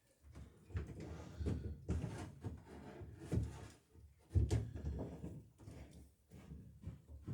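A run of irregular dull knocks and thumps from work on a wooden boat hull, with a few sharper strikes, the loudest about four and a half seconds in.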